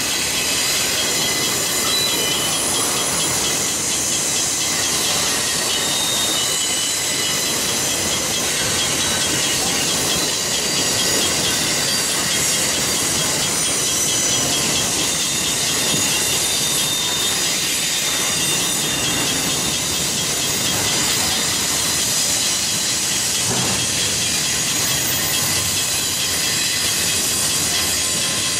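Freight train cars, autoracks and then double-stack container cars, rolling steadily past at close range. Steel wheels run on rail with a continuous high-pitched squeal over the rolling noise.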